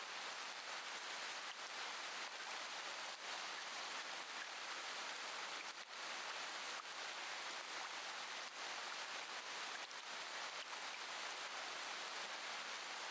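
Steady rain, a constant even hiss with faint scattered drop ticks.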